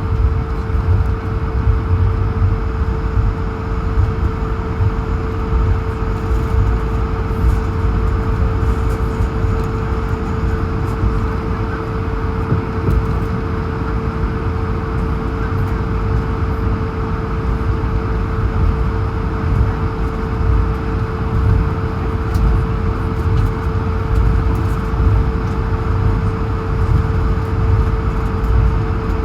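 Airbus A220-100 cabin noise while taxiing: the steady hum of its Pratt & Whitney PW1500G geared turbofans at taxi power, heard from inside the cabin, with a low rumble underneath and a constant mid-pitched tone.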